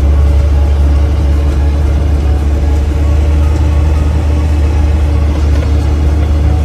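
Jeep engine running on the move, heard from on board: a loud, steady low rumble with an even engine drone over it.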